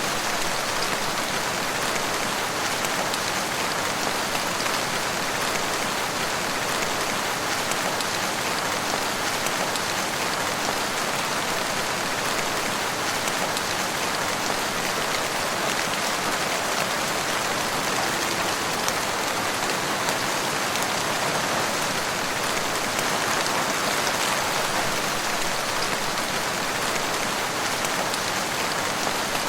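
Steady rain falling, an even hiss of many drops that holds at the same strength throughout.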